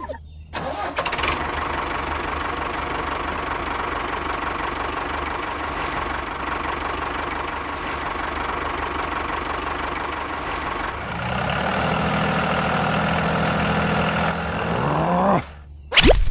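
A vehicle's motor running steadily. About eleven seconds in the sound changes, and a whine climbs in pitch before it cuts off sharply near the end.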